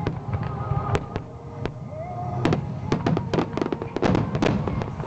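Aerial fireworks of the Phoenix display bursting and crackling, with many sharp bangs in quick succession, thickest in the second half, over music with long held notes.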